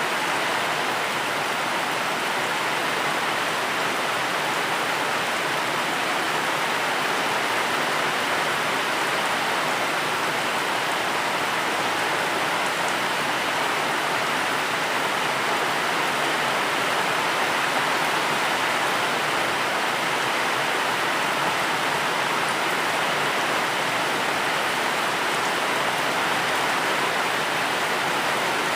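Steady, even rain falling, with no thunder or separate drops standing out.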